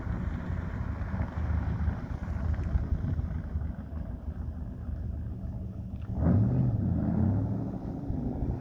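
Engine of a 1935 Ford truck running with a low rumble, growing louder with a brief rise in pitch about six seconds in.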